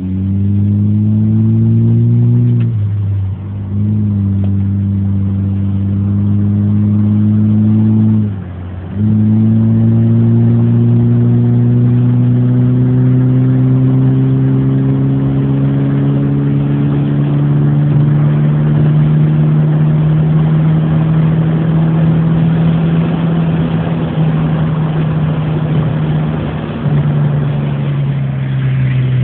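A Ferrari engine pulls steadily, its pitch rising slowly as it gains revs. The sound drops briefly about three seconds in and again about eight and a half seconds in, as if the car is shifting up, with a smaller dip near the end.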